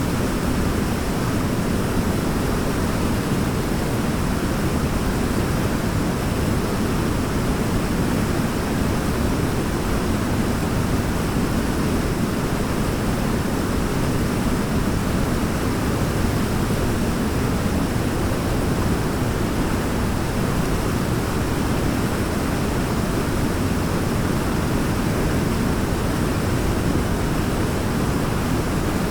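Waterfall: water falling and splashing in a steady, deep rush that does not change.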